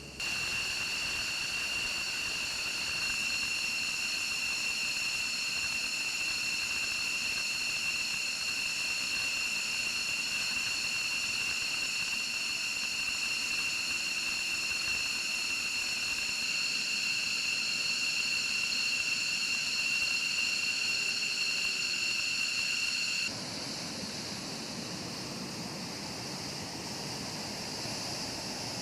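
Jet engine running with a steady high-pitched turbine whine over a rushing hiss. About 23 seconds in it cuts abruptly to a quieter, lower rushing noise.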